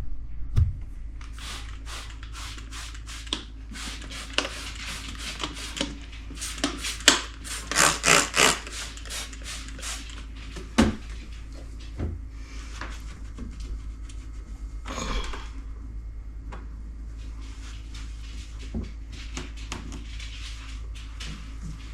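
Jars and bottles being handled and set down while a refrigerator shelf is emptied: a string of knocks, clicks and rubbing, busiest around seven to nine seconds in, over a steady low hum.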